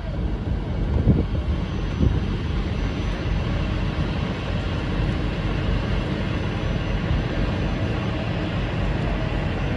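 Steady rumble and rushing noise aboard a moving tour boat, its engine and the wind, with two short bumps about one and two seconds in.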